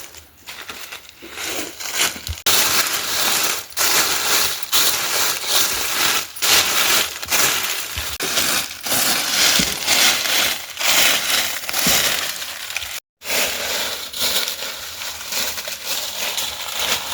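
Loud, dense crackling and crunching noise full of sharp snaps, with two abrupt cuts to silence, the first about thirteen seconds in.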